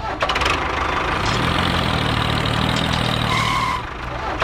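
An engine running steadily, with a brief higher tone about three and a half seconds in.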